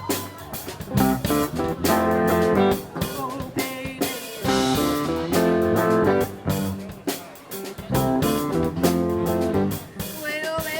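Band playing a rock song instrumentally: guitar chords over a drum kit beat, in repeated chord stabs.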